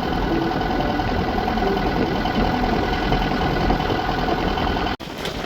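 A sailboat's engine running steadily with a held hum, under a haze of wind and water noise. About five seconds in the sound breaks off abruptly and comes back as a windier rush without the engine tone.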